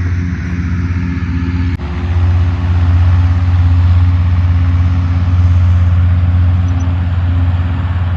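Engine running steadily at a constant speed, a loud low hum, with a brief break about two seconds in before it carries on.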